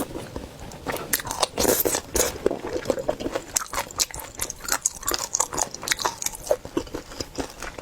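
Close-miked eating of seafood: crunchy bites and wet chewing, a dense run of irregular crackles and clicks.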